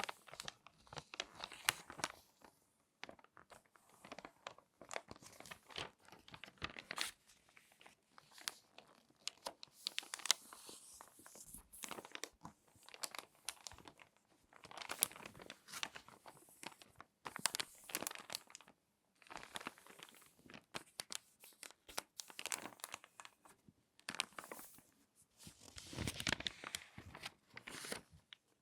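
Glossy magazine pages being folded and creased close to the microphone, a run of irregular crinkles and crackles in bursts with short pauses between them.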